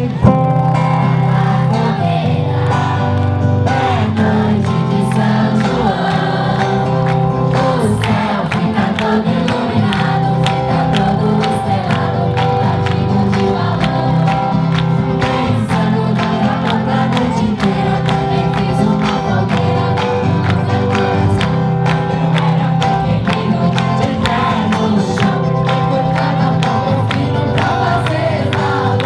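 Group of voices singing a festa junina folk song with instrumental accompaniment and a steady beat.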